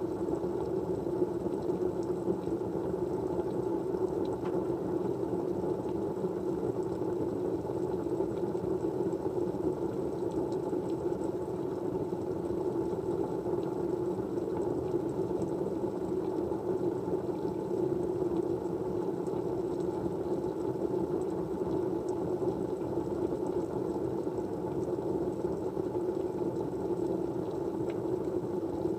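Steady low rushing white noise, even and unchanging, with a few faint ticks.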